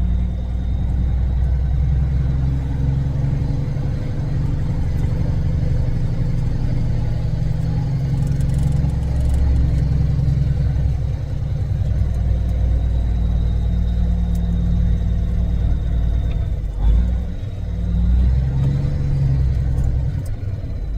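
Semi truck's diesel engine working under load as the rig climbs a steep drive, with a short change in the engine sound about three quarters of the way through.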